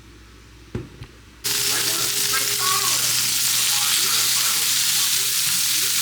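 Food frying in a hot pan: a loud, steady sizzle that starts abruptly about a second and a half in, after a couple of light knocks, with stirring sounds mixed in.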